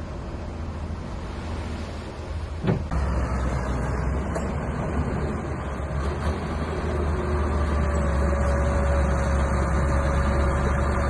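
Small bulldozer's diesel engine running steadily. About three seconds in there is a sharp click, after which the engine sounds louder, and a faint steady whine joins it near the end.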